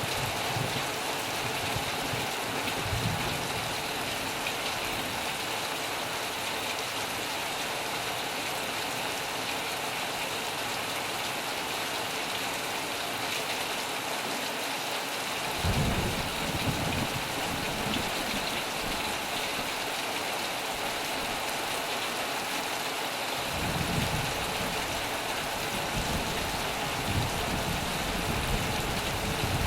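Heavy rain drumming steadily on a metal roof. Low rumbles of thunder come in about halfway through and again through the last six seconds.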